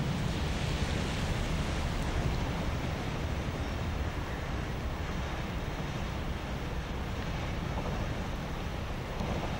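ÖBB class 1012 electric locomotive approaching with a rolling-highway train of lorries on low-floor wagons: a steady low rumble and hiss, with wind buffeting the microphone.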